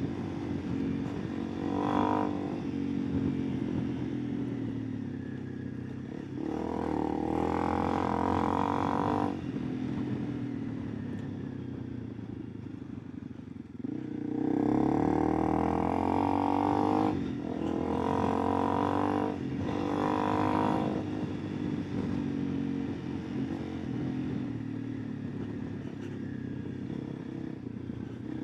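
Honda CRF300 Rally's single-cylinder engine running under way, the throttle opened in several spells of a few seconds, the longest about a third of the way in and a cluster of three about halfway through, and eased off between them.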